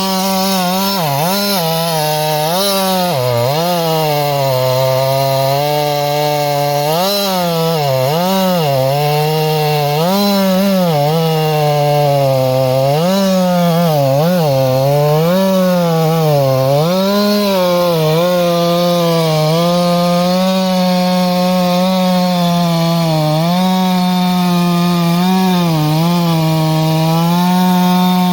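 Two-stroke chainsaw cutting through a downed log. Its engine pitch repeatedly dips and recovers as the chain bogs in the wood, then holds steadier in the last third.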